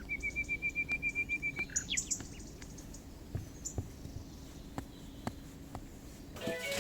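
A songbird's rapid trill of about a dozen even, evenly spaced notes lasting under two seconds, followed by a few short high chirps, then scattered faint clicks. Music comes in near the end.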